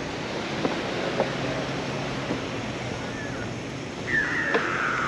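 Beach ambience: steady surf and crowd noise with a distant engine hum underneath, a few light knocks, and a short falling cry about four seconds in.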